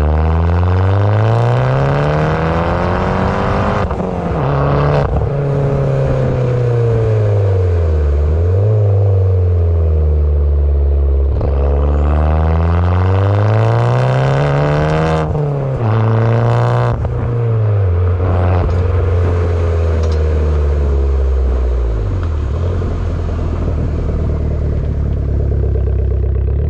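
Tuned Abarth 595 Competizione's 1.4 turbo four-cylinder, breathing through a full 60 mm exhaust, accelerating hard. The engine note climbs for several seconds and then falls sharply at each gear change, over and over, with short sharp cracks at some of the shifts.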